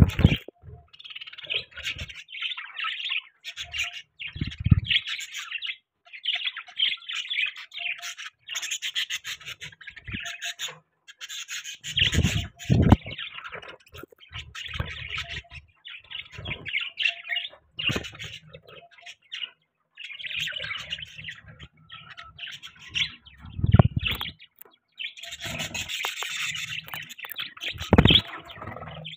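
Pet budgerigars chattering and chirping in quick, broken bursts, with a few squawks. Four low thumps are heard, the loudest moments.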